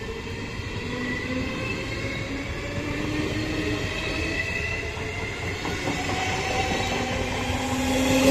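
Electric regional train of MD coaches pulling away, its wheels rolling on the rails under several electric whines that rise slowly in pitch as it speeds up and grow louder toward the end. The whine sounds like the chopper control of an ALe 724 electric multiple unit.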